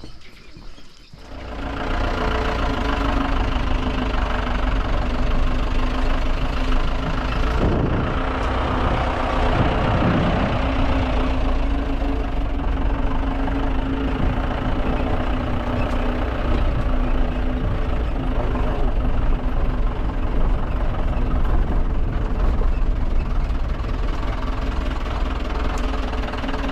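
A motor vehicle's engine running steadily, cutting in suddenly about a second in, with a brief rise and fall in pitch partway through.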